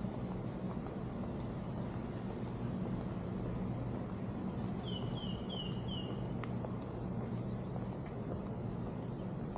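A steady low drone runs throughout. About five seconds in, a bird gives four quick downward-sliding chirps, and a single click follows just after.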